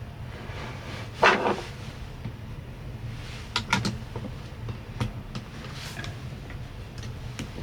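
A few short knocks and clunks of things being handled, the loudest about a second in and a quick cluster a little later, over a steady low hum.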